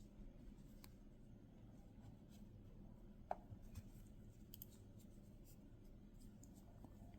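Near silence with faint rubbing and a few soft clicks from a crochet hook working yarn, over a low steady hum. One brief sharper tick comes a little after three seconds.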